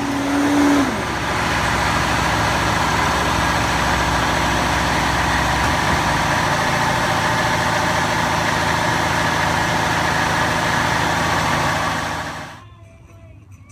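Heavy machine engine running steadily on construction equipment, with a brief steady whine in the first second that drops away. The engine sound falls off sharply about a second before the end.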